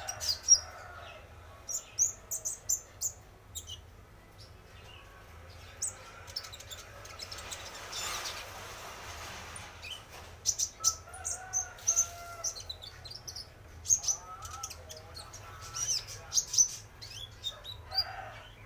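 Male konin trotol bird singing: runs of short, sharp high chirps, repeated throughout, mixed with lower warbled phrases, played as a lure call. A brief hiss comes about halfway through.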